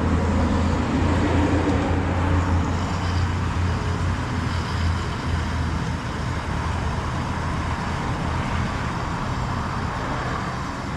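Honda Silver Wing's engine running steadily under way, a low hum mixed with wind and road noise; the hum weakens after about seven seconds.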